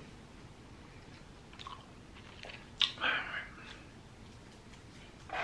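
Close-up chewing of french fries, mostly faint, with a sharp click and then a short, louder burst about three seconds in.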